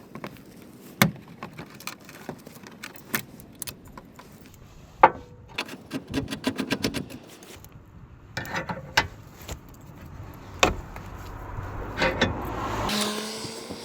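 Metal hand tools and car parts clinking, clicking and knocking during suspension work, with a quick run of rapid clicks about halfway through and a short motor whir near the end.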